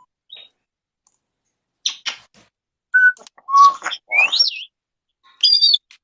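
Pet parrot whistling and squawking in short separate bursts: a harsh call, two short steady whistled notes, a quickly rising whistle about four seconds in, and another harsh call near the end.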